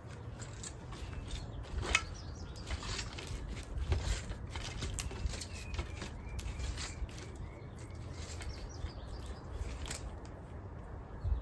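Scattered clicks and rustles of close handling, with a few faint bird chirps through the middle and a low rumble underneath.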